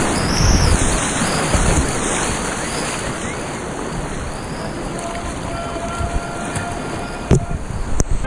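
Steady rush of river whitewater with wind buffeting an action camera's microphone, and a few sharp knocks near the end.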